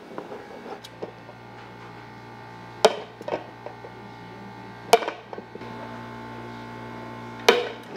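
Three sharp knocks, about two seconds apart, over a steady low machine hum that starts about a second in.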